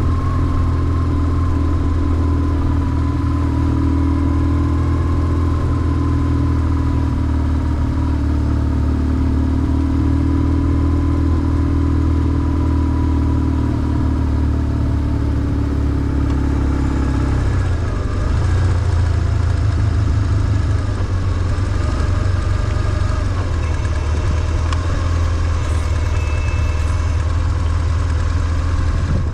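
BMW R1150GS's air/oil-cooled flat-twin boxer engine running as the motorcycle is ridden, a steady low engine note. A little past halfway the note changes and briefly gets louder.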